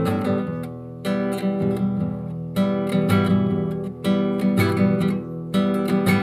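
Music: a strummed acoustic guitar playing chords, with no voice.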